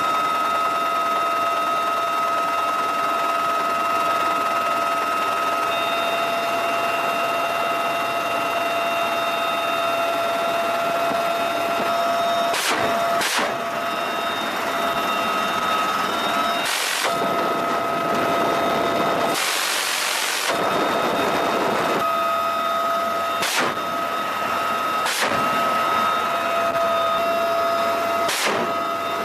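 Steady whine of a UH-1Y Venom helicopter's twin turboshaft engines and rotor, holding several fixed tones. Over it come a series of short, sharp bursts of noise, one lasting about a second around two-thirds of the way through.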